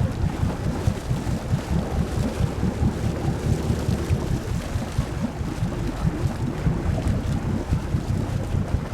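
Wind buffeting the microphone in an uneven low rumble over the steady drone of a tour boat's engine.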